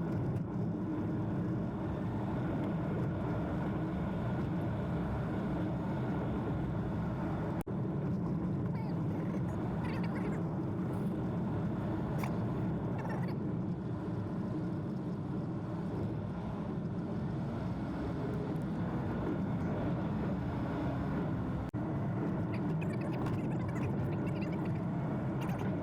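Steady road and tyre noise of a Toyota Prius driving along a forest logging road, heard from inside the car, with two brief dropouts.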